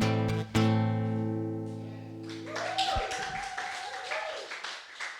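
Acoustic guitar's final strummed chord ringing and fading away, stopped by a knock about three seconds in. Light clapping and a voice start up as it dies.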